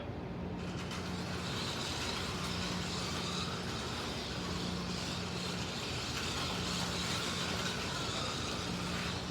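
Slot cars (MR Slotcar Cunningham Corvettes and a Scalextric Mercedes 300 SLR) lapping the track: the small electric motors whine and gears and pickup braids rasp. The whine rises and falls as the cars are throttled through the laps.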